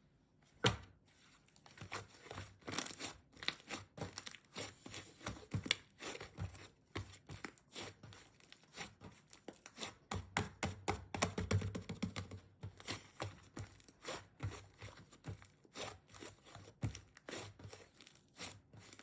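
Pink slime being played with by hand, giving a continuous run of quick, irregular sticky clicks and crackles, busiest about halfway through.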